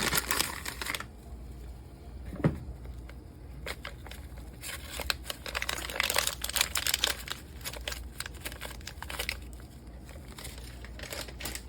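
Kitchen handling noises while ranch seasoning is added to a bowl of green beans: bursts of crinkling and rustling, with a single knock about two and a half seconds in.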